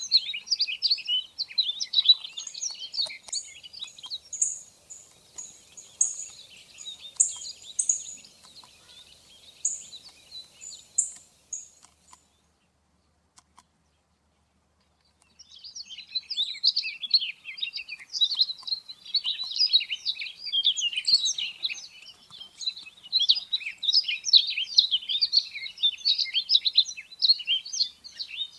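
Bunting song: dense, rapid twittering phrases, with short high call notes scattered through the first part. It cuts off for about three seconds midway, then resumes.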